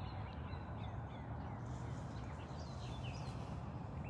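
Small birds chirping on and off, short quick calls clustered mostly in the middle, over a steady low rumble.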